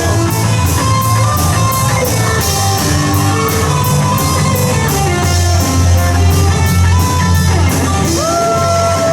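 Live rock band playing: electric guitar melody over bass and a drum kit, with cymbals striking on a steady beat about three times a second. Near the end one long note is held, bending up at its start and down as it ends.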